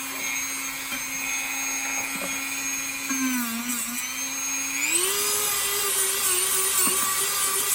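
Small high-speed rotary grinding tool running steadily, buffing the rubber inside a tractor tire around a sidewall puncture to prep it for a patch. Its high whine dips briefly about three seconds in and steps up to a higher pitch about five seconds in.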